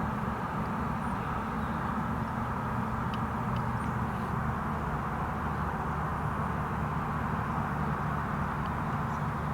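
Car running steadily: an even low engine hum under a steady rush of noise.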